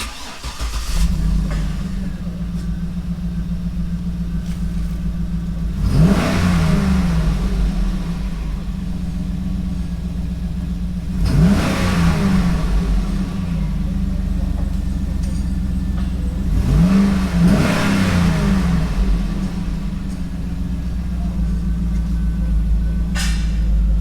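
2007 Cadillac Escalade's V8 exhaust idling, blipped three times about five to six seconds apart. Each rev rises quickly and falls back to idle.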